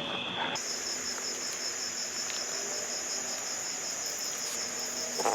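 Crickets chirping in a steady high trill. Just after the start it switches abruptly to a higher, evenly pulsing trill.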